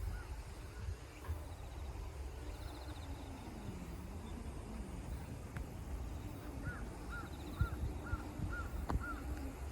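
A bird calling a run of about six short, clear notes in quick succession in the second half, over a steady low rumble of outdoor background noise.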